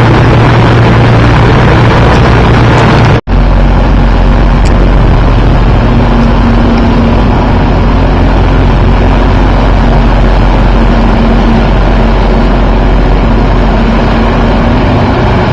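A motorboat's engine running at speed, mixed with heavy rushing wind and water noise on the microphone. A brief break about three seconds in, after which the sound goes on the same way with a slightly different engine hum.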